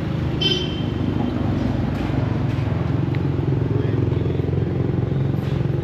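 A vehicle engine idling steadily, its low hum holding an even pitch, with city street noise.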